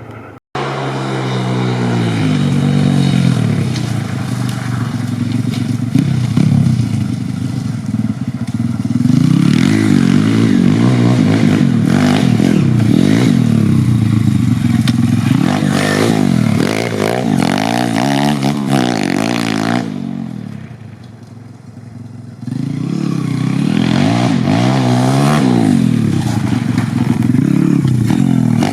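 YCF 150 Classic pit bike's 150cc single-cylinder four-stroke engine revving hard at wide-open throttle, its pitch climbing and falling again and again as the rider accelerates and shifts. About 20 seconds in it drops back to a quieter run for a couple of seconds, then opens up again.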